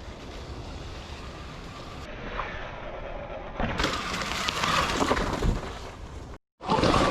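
Sur Ron X electric dirt bike riding over rough single track. Tyres crunch over dirt and roots, and the bike knocks and rattles over bumps, louder in the second half, with wind on the microphone. There is no engine note, only the quiet electric drivetrain.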